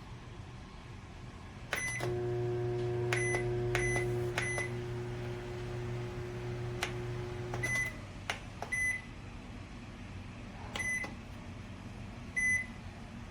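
COMFEE' CM-M093ARD microwave beeping at its controls, then running with a steady hum for about six seconds before stopping. More short beeps and a few sharp clicks follow.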